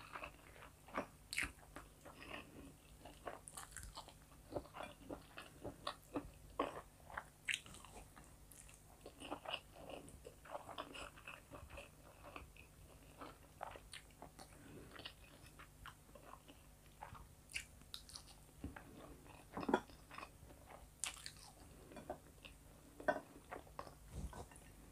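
Close-miked chewing of rice and chicken fillet, with irregular mouth clicks and smacks.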